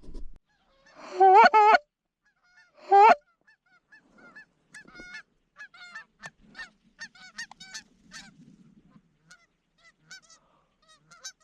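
Canada geese honking: two loud, close calls in the first few seconds, then many fainter overlapping honks from a flock.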